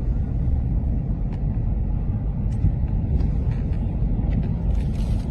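A steady low rumble of outdoor field-recorded sound, with a few faint ticks on top.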